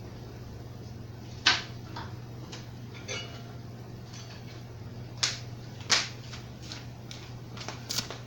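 AeroSpeed box fan running on low speed with a steady low motor hum. A handful of sharp clicks and knocks sound over it, the loudest about one and a half seconds in.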